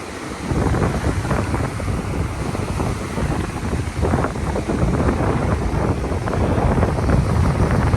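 Wind buffeting the microphone, a loud, ragged low rumble that comes up about half a second in, over the wash of surf.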